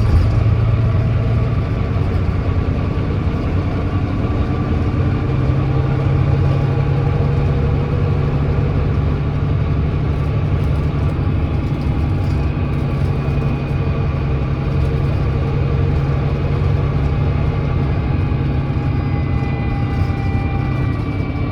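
Volvo D9B 9.3-litre diesel engine of a Volvo B9TL double-decker bus running steadily at a low, even pitch, with no gear change or sudden event.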